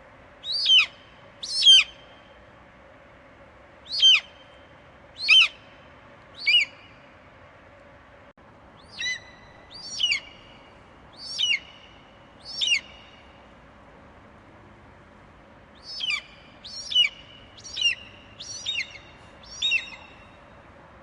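Eagle calling: a series of short, sharp screeches, each falling in pitch, given in runs of two to six calls with pauses of a couple of seconds between runs.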